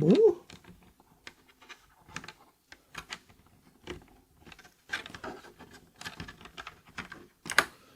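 Scattered small plastic clicks and taps from a mechanical keyboard switch being handled and pushed at the keyboard's hot-swap socket, a switch that is not going in easily.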